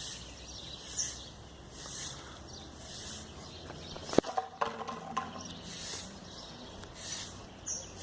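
Small birds chirping, with short high-pitched calls repeating about once a second. A sharp click about four seconds in.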